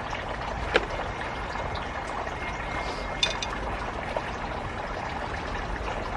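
Steady running, trickling water, with a sharp click about a second in and a brief clink around the middle.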